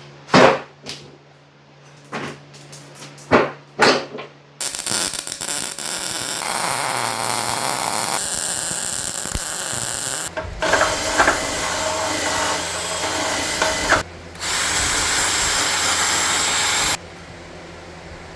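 A handheld electric power tool runs loud and steady in long stretches of about six, four and three seconds with brief stops between them, its sound changing as it works on the welded steel bracket. It is preceded by a few sharp knocks.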